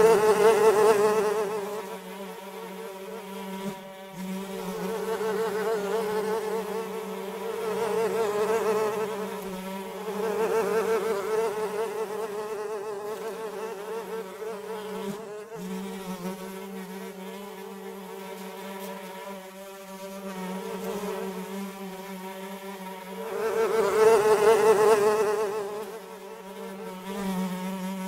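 Flies buzzing in flight, a steady droning hum that swells louder and fades away several times as they pass close, loudest at the start and again near the end.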